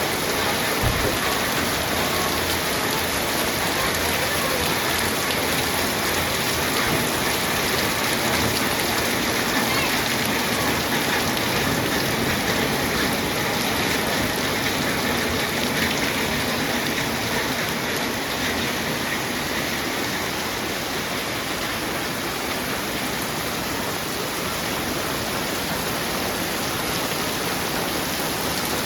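Heavy rain falling steadily, a dense even hiss of drops on the surfaces around.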